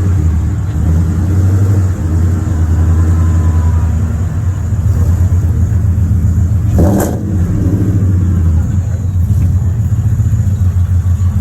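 Engine of a 1960 Mercury M-series crew-cab truck running steadily at idle, low-pitched and loud, with a brief sharp knock or click about seven seconds in.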